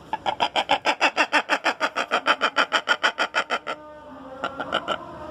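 A bird that the local name 'taong' refers to, calling in a fast, even run of clipped notes, about seven a second, for some three and a half seconds, then a few scattered notes near the end.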